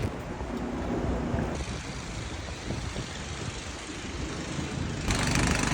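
City street traffic noise: motor vehicles running along the avenue, with a vehicle engine growing louder and closer about five seconds in.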